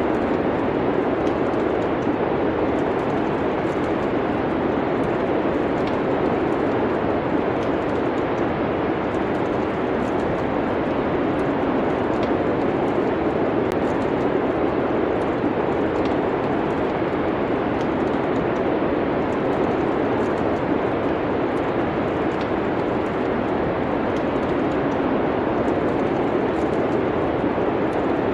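Steady rushing noise of wind with faint, scattered crackles of a wood fire burning in a fireplace.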